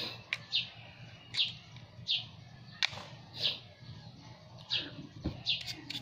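A small bird chirping over and over, short high slightly falling chirps about once or twice a second. A few sharp clicks and one soft knock come in between, about three and five seconds in.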